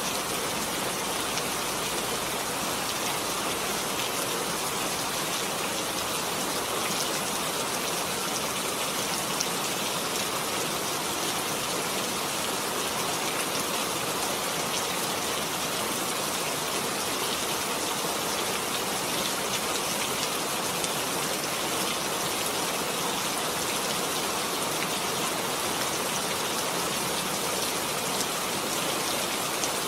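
Heavy rain falling steadily, an even hiss of drops with fine patter of individual drops hitting a surface.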